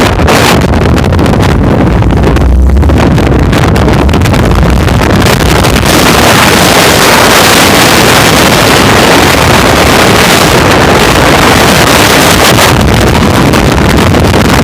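Heavy wind buffeting on the microphone of a moving off-road vehicle, loud and distorted, with a low rumble underneath in the first few seconds. The noise grows heavier a few seconds in and eases slightly near the end.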